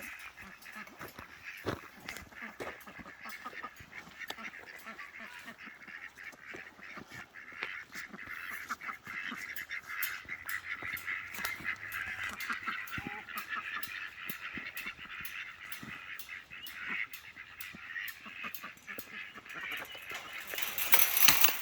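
A group of domestic ducks calling, with repeated quacks and honks throughout. A louder rush of noise comes near the end.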